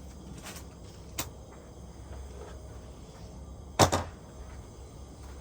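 Household knocks over a low steady hum: a light click about a second in, then a loud double knock a little before four seconds in, of the kind a cupboard door shutting makes.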